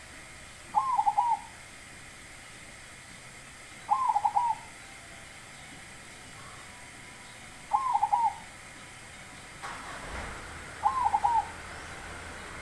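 Zebra dove (perkutut) cooing: four short phrases about three to four seconds apart, each a quick run of a few notes. A low rumble comes in near the end.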